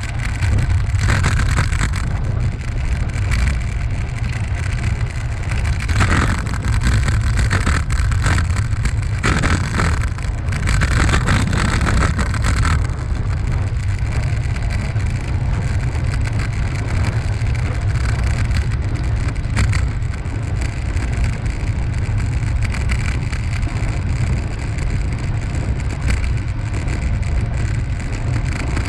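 Steady low rumble of wind buffeting the microphone of a bike-mounted camera while riding, with tyre and path noise; extra hiss comes and goes during the first half.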